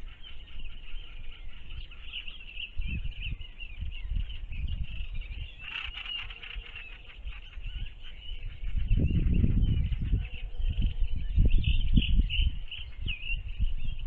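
Wild birds chirping and calling, a steady scatter of short high chirps with a brief run of rapid notes near the middle. A low rumbling noise swells up in the second half and is the loudest sound.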